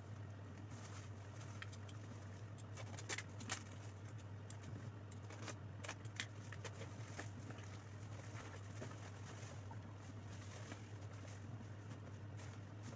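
Faint handling noises, scattered light clicks and rustles with a few sharper clicks, over a steady low electrical hum.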